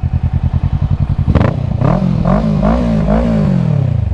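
Kawasaki Ninja 650's parallel-twin engine idling, then about a second in revved in four quick throttle blips before dropping back to idle near the end.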